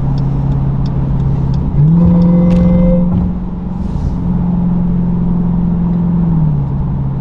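Supercharged 6.2-litre V8 of a 2023 Dodge Durango SRT Hellcat, its mufflers cut off, droning at a steady cruise through the open exhaust. A little under two seconds in the engine note jumps up in pitch and gets louder, holds for several seconds, then drops back to the lower drone near the end.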